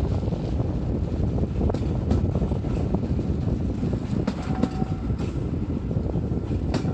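Hunslet Austerity 0-6-0 saddle tank steam locomotive working a train, a steady heavy rumble with irregular knocks and clanks from the moving train, and wind on the microphone.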